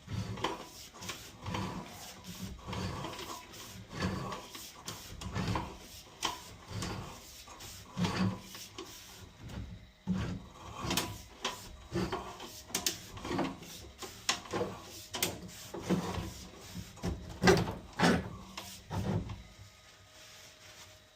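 Irregular knocks and rubbing scrapes, about one or two a second, with the sharpest clunks about 11 and 17 seconds in.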